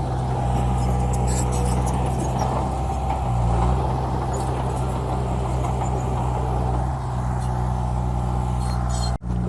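Bulldozer's diesel engine running steadily, briefly louder about three seconds in; the sound drops out for an instant near the end.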